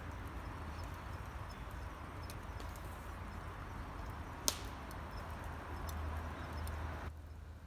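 Wood burning in a campfire stand: a steady hiss with scattered small crackles and one sharp pop about four and a half seconds in. The hiss drops away abruptly near the end.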